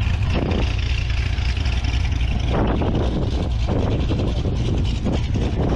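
A car's engine running, with a steady low rumble and a few short, louder noisy swells.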